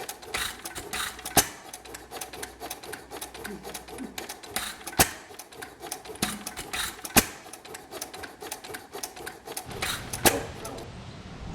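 1927 Domestic Type F side-shaft hit-and-miss engine running with a rapid, uneven clatter of clicks from its valve gear and side shaft. A sharp bang sounds every two to three seconds, four in all.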